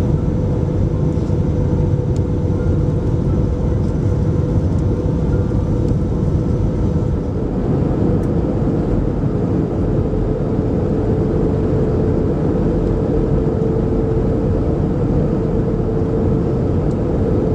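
Airbus A321neo cabin noise: a steady rumble of engines and airflow with a constant hum, which shifts slightly in pitch about seven seconds in.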